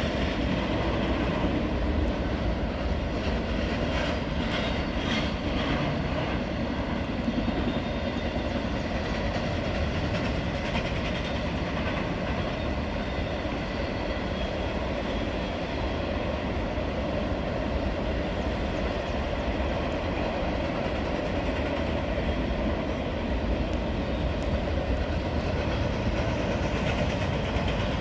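Westbound freight train rolling past: a steady rumble of wheels on rail, with a few sharp clicks about four to six seconds in.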